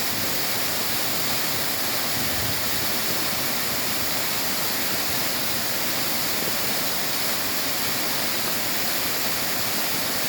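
Waterfall: a steady, even rush of falling water with a strong hiss.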